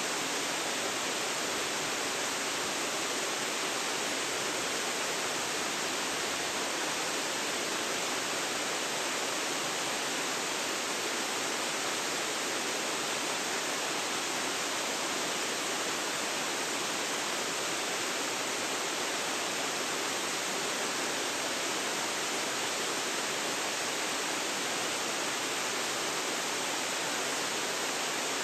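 Waterfall, a steady, even rush of falling water with no breaks or changes, picked up by a phone's built-in microphone.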